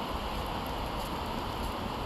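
Steady hiss of rain falling in forest, with a low uneven rumble of wind on the microphone underneath.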